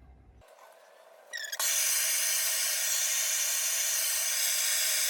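A hand-held hot-air dryer switches on about a second and a half in: its motor whines up briefly, then gives a steady, loud rush of blown air, used to firm up freshly thrown clay.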